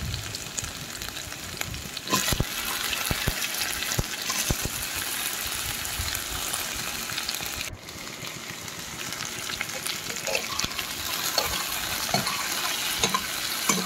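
Potato and taro sticks sizzling steadily as they fry in hot oil in a nonstick pan, with a few light knocks, and a spatula stirring them near the end.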